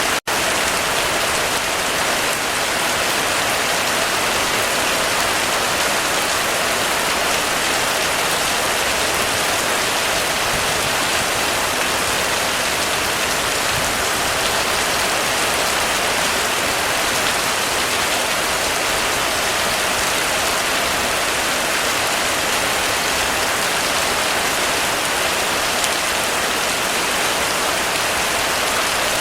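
Heavy rain falling steadily on a roof, a dense even patter with no let-up. The level drops out for a moment just after the start.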